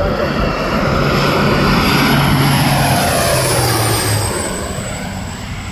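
Crop-dusting airplane making a low pass, its engine and propeller swelling to a peak and then dropping in pitch as it goes by.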